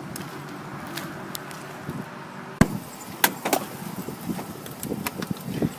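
The engine of a 2007 Chevrolet Express motorhome idling steadily. About two and a half seconds in there is a loud single clunk, then a few smaller knocks and clicks.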